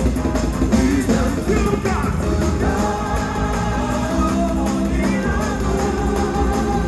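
Live gospel music: a band with drums and singing voices, which settle into long held notes about two and a half seconds in.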